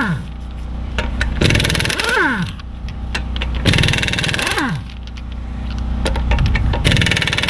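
Impact wrench loosening 22 mm lug nuts: three bursts of hammering, about a second each, each followed by a falling whine as the tool spins down after the trigger is released. A steady low hum runs underneath.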